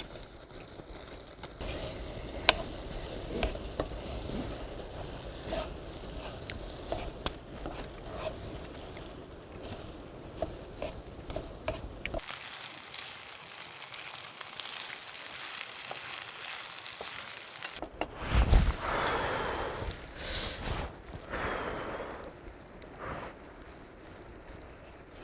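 Rice and spicy chicken frying in a pan: a steady sizzle with small crackles and the scrape of a spatula stirring, as the rice crisps into nurungji.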